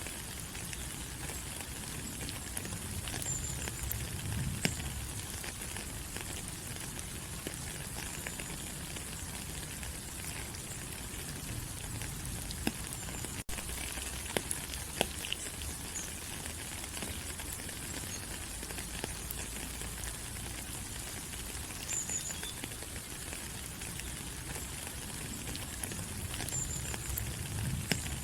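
Steady tropical rain falling on rainforest leaves: an even hiss full of separate drop ticks.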